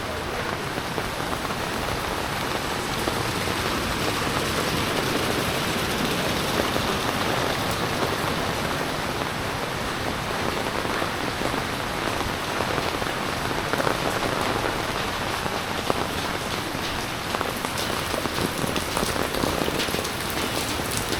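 Steady heavy rain falling and pattering on surfaces, with scattered drip ticks.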